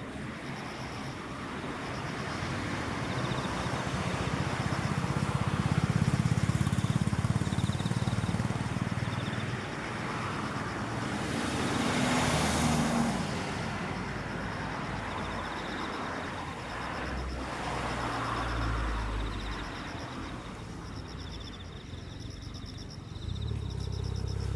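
Road vehicles passing, their engine and tyre noise swelling and fading, loudest about six and twelve seconds in, over insects chirping in short repeated trills.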